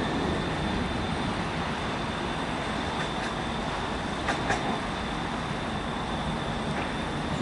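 Sydney Tangara electric train departing, with a steady rumble of the train moving off. A few faint clicks come around the middle.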